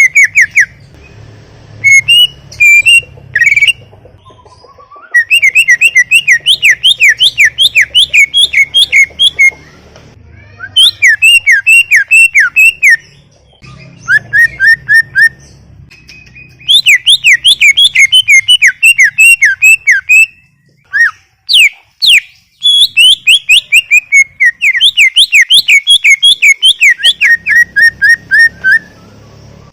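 Green leafbird (cucak ijo) in full song. It gives loud phrases of fast, repeated whistled notes, each a quick sweep, about three to four a second, separated by short pauses.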